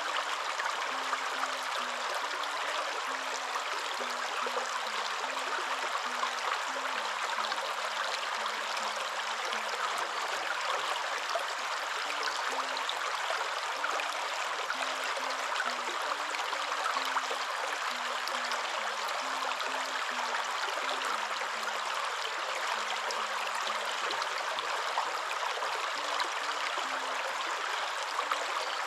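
Waterfall: a steady, even rush of falling water with no breaks. Underneath it, a faint low tone shifts up and down in short steps.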